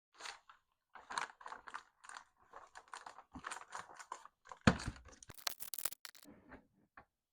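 Small plastic clicks and rattles of HO-scale model rail cars being handled and coupled onto the track, with a louder knock a little before the middle and a short scraping rustle just after it.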